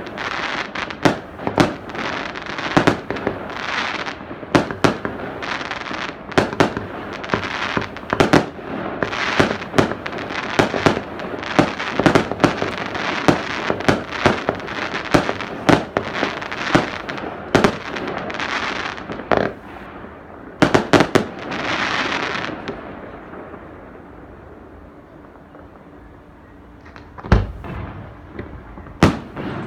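Aerial fireworks going off: a rapid, dense string of sharp bangs and crackling for about twenty-two seconds, then dying away, with two more single bangs near the end.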